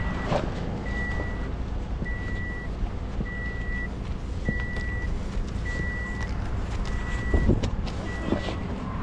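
Tow truck's backup alarm beeping steadily, about eight evenly spaced beeps, one every second or so, over the truck's idling engine.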